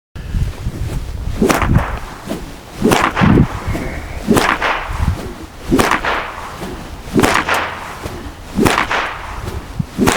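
Horse walking on a trail through leaves, its hoof steps crunching in an even rhythm about every second and a half. Wind rumbles on the microphone underneath.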